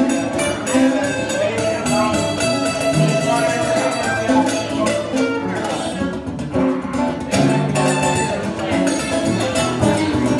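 Live country band playing an instrumental break between verses, with guitar picking out the lead.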